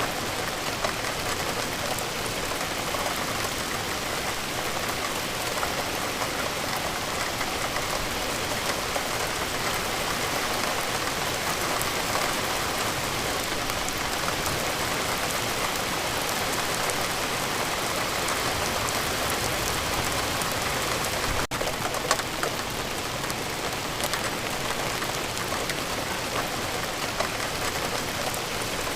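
Steady rainfall: an even hiss dense with the fine patter of drops, holding at one level. About two-thirds of the way through it drops out for an instant and carries straight on.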